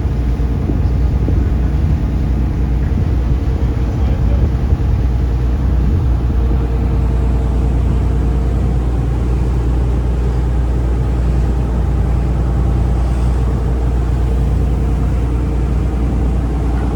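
A taxi boat's engine running steadily under way: a constant low drone with a steady hum over the rush of noise.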